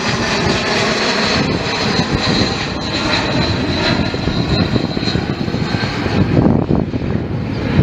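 Loud, steady engine noise with a thin high whine that fades about five seconds in, growing rougher and more uneven near the end.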